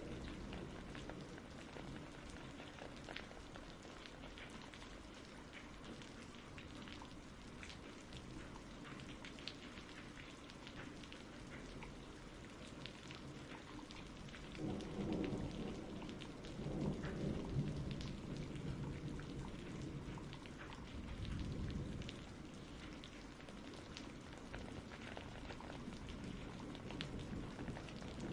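Steady rain falling, with scattered patters of drops, and thunder rumbling low about halfway through, swelling twice over several seconds before easing back to the rain.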